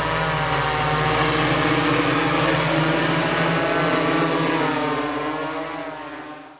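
Electric RC crop-spraying aircraft hovering: a steady, many-toned hum of its motors and rotor blades that fades over the last second or so.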